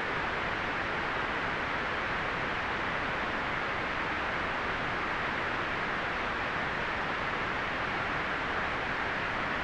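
Steady white noise: an even, unchanging hiss, strongest in the upper middle and softer in the highest treble.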